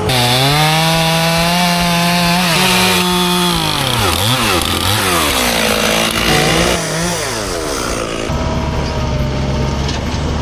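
Two-stroke chainsaw run at full throttle, its pitch dipping and recovering several times as it bogs down in the cut. From about 8 seconds in, a lower, steady engine sound takes over.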